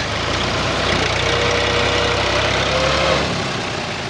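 Diesel engine of a Fiat 480 tractor running with a low, steady rumble that eases off about three seconds in.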